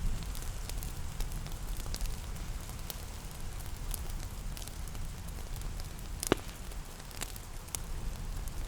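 Wood fire crackling with scattered sharp pops, one louder pop a little past six seconds in, over a steady low rumble and a soft hiss of rain.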